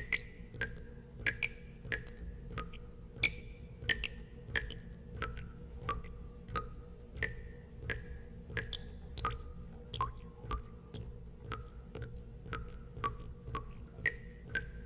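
Water drops falling one after another into water, about one and a half a second. Each drop is a sharp click followed by a short ringing plink whose pitch varies from drop to drop, over a low steady hum.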